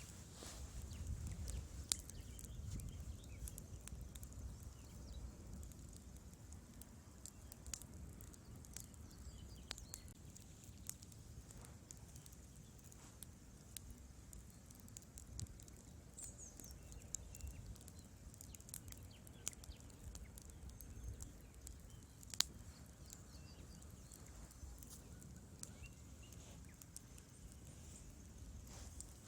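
Wood fire burning in a fireplace, with a low rumble of flames and irregular sharp crackles and pops from the burning logs; one pop about 22 seconds in stands out.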